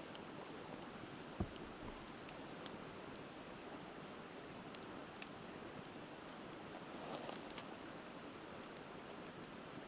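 Wood campfire crackling with scattered sharp pops over the steady rush of a river. One louder, deeper pop about a second and a half in, and a quick cluster of crackles near the end.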